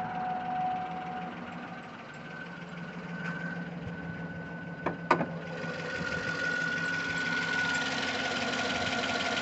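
2009 Cadillac Escalade's V8 idling with a steady hum and a little jump in it, which the owner puts down to a misfire from an old spark plug or coil at the back of the engine. Two sharp clicks come about five seconds in, and the engine sound grows louder and hissier after them.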